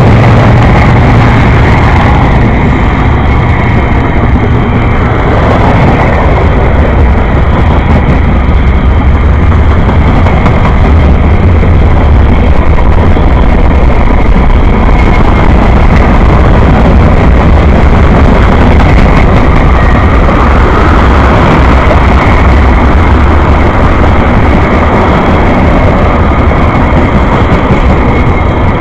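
A train passing close by: a loud, steady, deep running noise of locomotive and wheels on rails.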